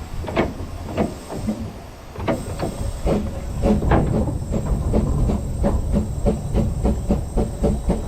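1913 Orenstein & Koppel 0-4-0 well tank narrow-gauge steam locomotive working, with quick, regular exhaust chuffs, about four or five a second, and a hiss of steam over the rumble of the train. The beats ease off about a second in and come back louder about two seconds in.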